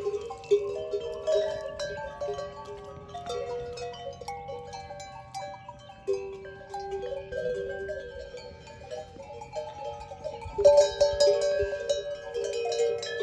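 Neck bells on a herd of goats and sheep clinking and ringing irregularly, many overlapping tones at different pitches, loudest about three-quarters of the way through.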